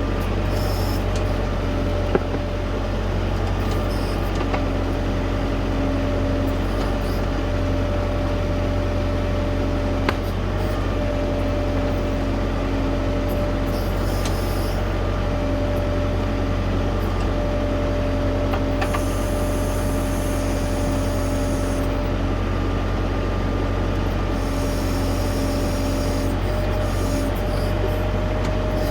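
LS U5030 tractor-loader-backhoe's diesel engine running steadily at working speed, with a steady hum that drops in and out and two sharp knocks, one about two seconds in and one about ten seconds in.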